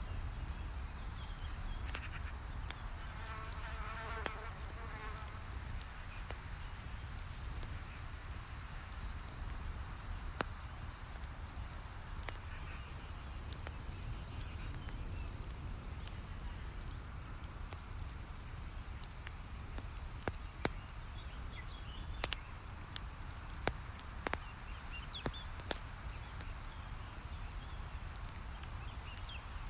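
Campfire crackling, with scattered sharp pops that come more often in the second half, over a steady low rumble. A short buzz passes about three seconds in.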